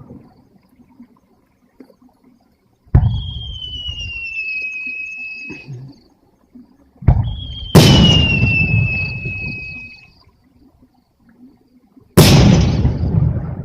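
Aerial fireworks bursting with four sudden booms, each fading out over a second or two. After two of them, a high whistling tone sounds, sliding slightly down in pitch for about two and a half seconds.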